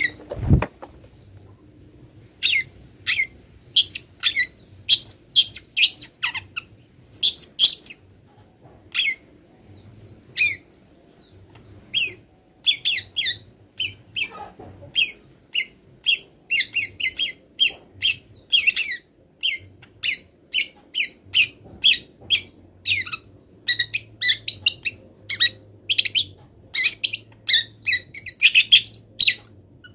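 Long-tailed shrike (cendet) singing a long run of short, sharp, high chirps and squawks, mixed with mimicked calls of other wild birds, the notes coming faster and denser in the second half. A single sharp knock about half a second in.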